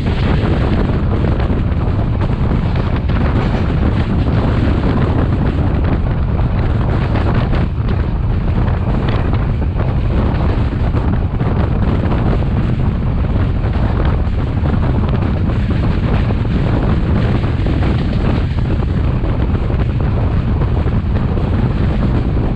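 Heavy, steady wind noise buffeting the camera microphone over the low rumble of a moving Class S13 diesel multiple unit.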